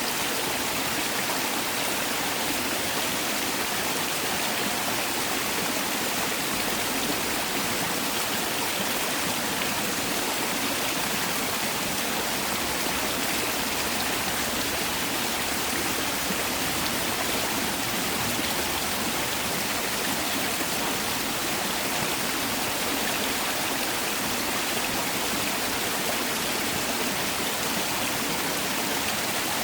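Mountain valley stream rushing steadily over rocks, a constant full rush of running water.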